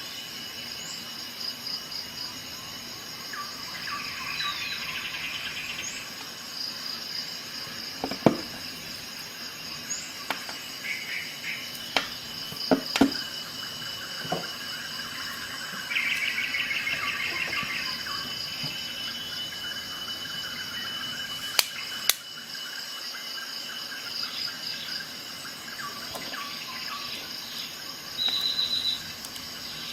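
Insects chirping steadily, with bird chirps and short trills, and a few sharp clicks scattered through.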